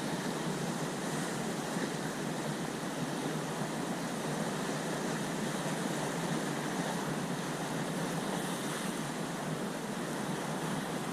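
Steady wash of sea surf with wind on the microphone, an even rushing noise with no distinct events.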